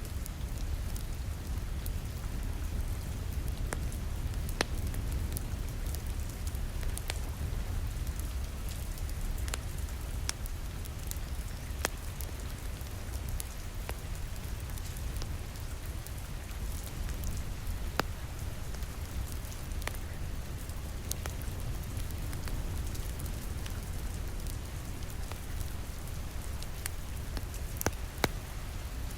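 Steady rain falling against a window, an even hiss over a low rumble, mixed with a wood fire crackling in a fireplace, its scattered sharp pops sounding every second or so.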